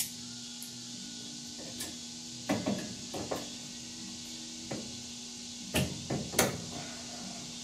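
Rusty vise grips (locking pliers) being worked by hand to free them up: scattered sharp metal clicks and clunks, loudest about two and a half seconds in and near the end, over a steady low hum.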